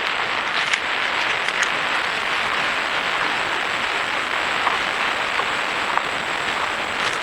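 Steady outdoor forest ambience: an even hiss with small scattered ticks and crackles through it.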